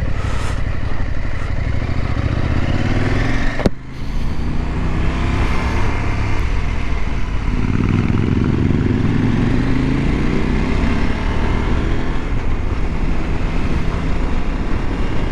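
Parallel-twin adventure motorcycle riding at road speed, the engine rising in pitch as it accelerates, with a brief dip about four seconds in as it changes gear, then pulling up again. Wind noise rushes over the microphone throughout.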